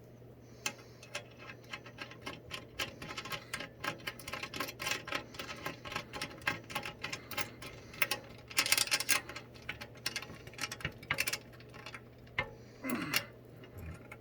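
Rapid, irregular small metallic clicks and ticks as a nut is tightened onto a bolt with a hand tool, densest about two thirds of the way through.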